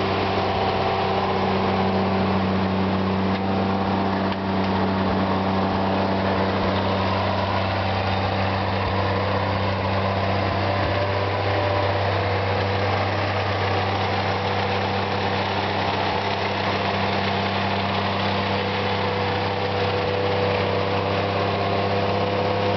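GMC CCKW 2½-ton army truck's GMC 270 inline six-cylinder engine idling steadily, its pitch not changing.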